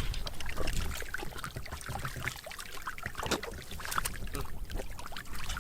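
Water sloshing and splashing, with many short scattered splashes and knocks.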